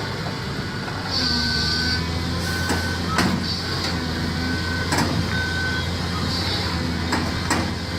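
Heavy vehicle engine running with a steady low hum, while a high warning beep sounds in two pairs of short pulses. Several sharp knocks come through, the loudest about three and five seconds in.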